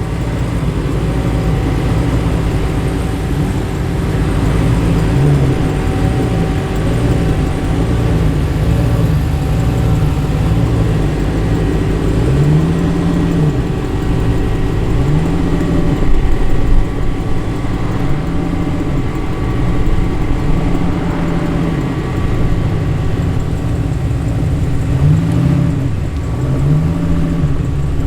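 Muscle car engines rumbling at low speed as they roll in, with repeated throttle blips that rise and fall in pitch every couple of seconds.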